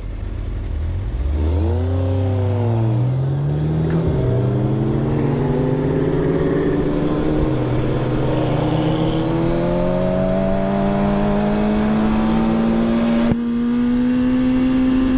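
Vehicle engine under way: its pitch rises for about four seconds, drops at a gear change, then climbs slowly and steadily. A second engine note briefly swells and falls between about two and four seconds in.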